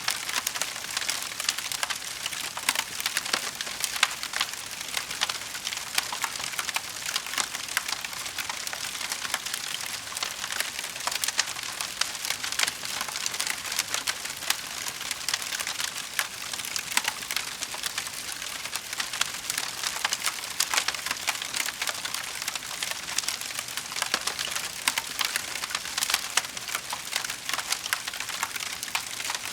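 Wood fire crackling in a fireplace: a continuous patter of many small, sharp pops and snaps.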